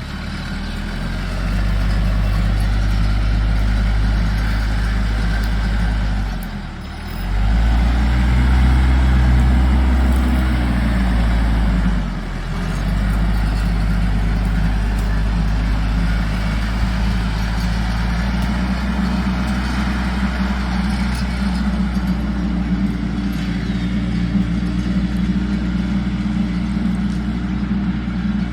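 A heavy engine running steadily. It drops briefly about six seconds in, then revs up and holds higher for a few seconds before settling back to a steady run.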